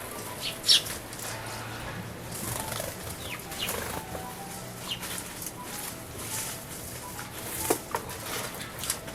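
Eurasian tree sparrows bathing in a shallow bird bath, fluttering their wings in the water, with short high chirps scattered through.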